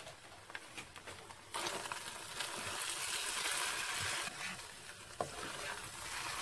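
Minced meat, onion and grated potato frying in a pan while a wooden spoon stirs it, a steady sizzle with scrapes of the spoon; the sizzle gets louder about a second and a half in.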